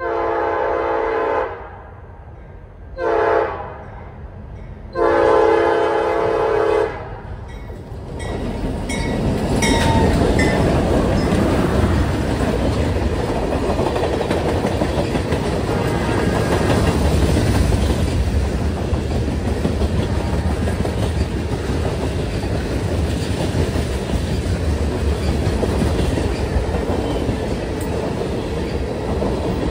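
Freight train's locomotive horn sounding three blasts, long, short, long, as the train approaches. Then, from about eight seconds in, the train passes close by: a loud, steady rumble of wheels on rail as a string of tank cars rolls past.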